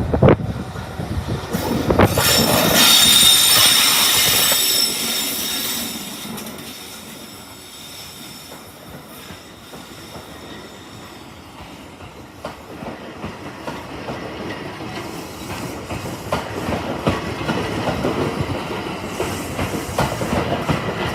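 Train of an EF81 electric locomotive hauling E235 series cars rolling past close by. A loud, high-pitched wheel squeal and rush peaks a few seconds in. It is followed by the clickety-clack of the wheels over rail joints.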